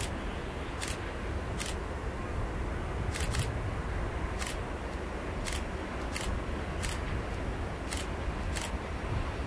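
Low steady rumble of an approaching diesel freight train, heard from well off, with about ten sharp high clicks at uneven intervals over it.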